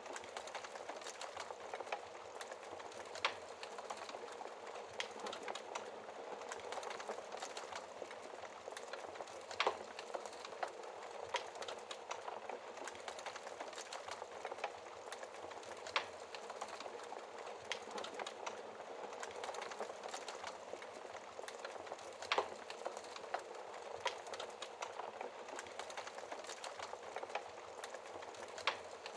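Wood fire burning in a fireplace: a steady soft hiss with constant small crackles, and every few seconds a sharper pop, the loudest about ten, sixteen and twenty-two seconds in.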